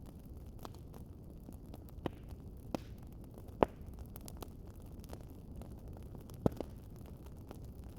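Wood fire crackling: a low steady rumble with a handful of sharp, scattered pops, the loudest about halfway through.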